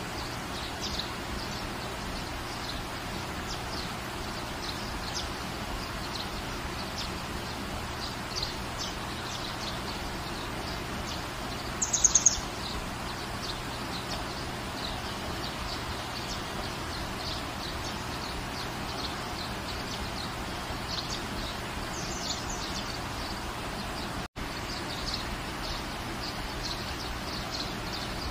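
Steady rain hiss with small birds chirping throughout. There is a louder run of rapid high chirps about twelve seconds in, and the sound cuts out for a split second near the end.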